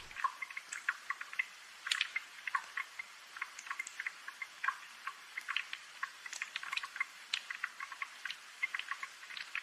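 Raindrops dripping and pattering: light, sharp ticks at an uneven pace, several a second, over a faint hiss, with no low rumble.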